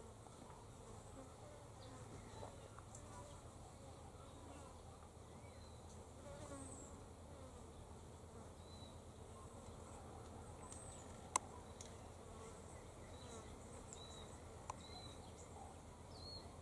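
Faint steady low buzz, with a few faint high chirps in the second half and a single sharp click about eleven seconds in.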